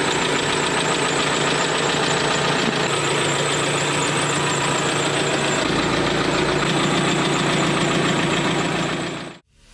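Engine running steadily, cutting off suddenly about nine seconds in.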